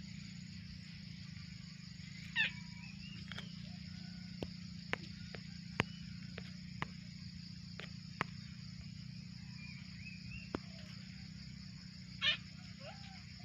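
Outdoor natural ambience: a steady high-pitched insect drone, with two short squeaky chirping calls from a bird or small animal about two and a half seconds in and again near the end. Sharp clicks are scattered throughout.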